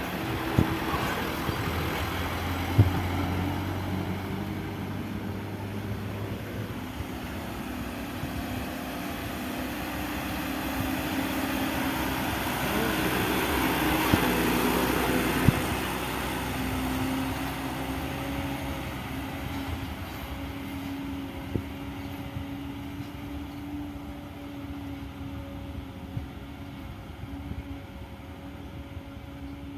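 Loaded sand truck's engine labouring under load, growing louder to a peak about halfway through and then easing off, with a few sharp knocks.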